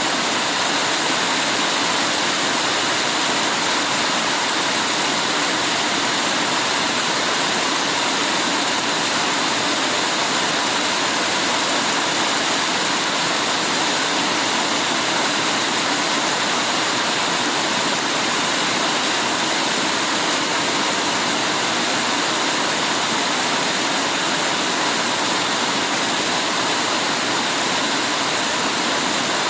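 Heavy rain falling, a dense steady hiss that keeps an even level throughout.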